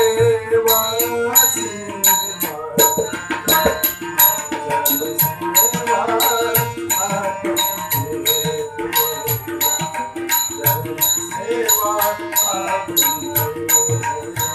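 Marathi devotional bhajan: a singer's line over tabla and bright metallic percussion strokes that keep a steady, even beat.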